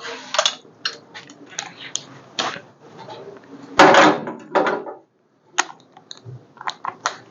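Irregular metallic knocks and clanks of hand tools and engine parts being handled while engine accessories are unbolted. The loudest, longest clatter comes about four seconds in.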